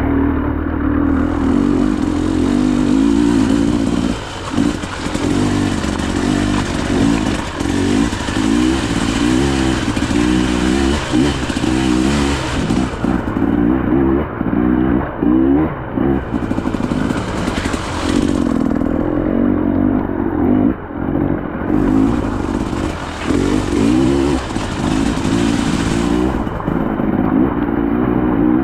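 KTM EXC 300 two-stroke enduro bike engine under load, revving up and down again and again as the throttle is worked, roughly every second. A high hiss comes and goes over it.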